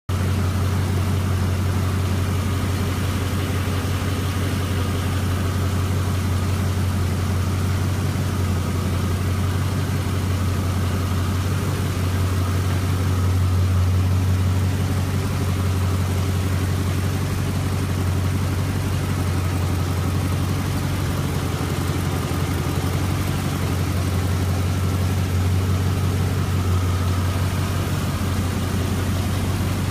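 The LS1 5.7-litre V8 swapped into a 1988 Land Rover Defender 110, idling steadily with an even, unchanging note.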